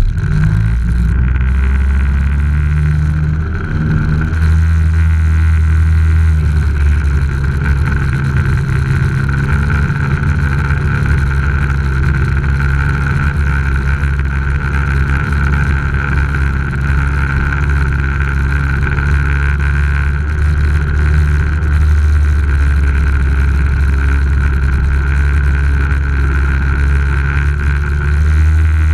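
Jet ski engine running steadily, its pitch shifting slightly now and then.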